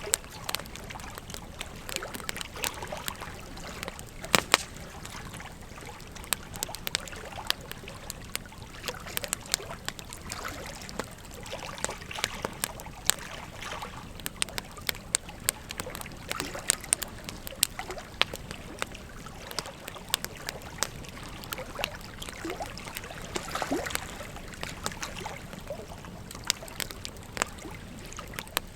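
Wood fire crackling with frequent sharp, irregular pops and snaps over the steady rush of a flowing river.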